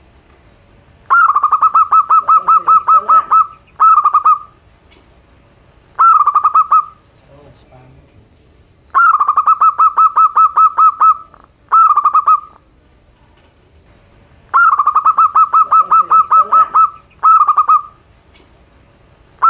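Zebra dove (local perkutut) cooing. Phrases of quick, even pulses on one steady pitch, about five a second. A long phrase of two to three seconds is followed by a short one, and the pattern repeats every few seconds.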